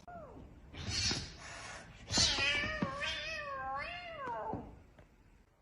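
Cat meowing: a short falling meow, then a brief rush of noise, then one long, wavering meow lasting about two and a half seconds.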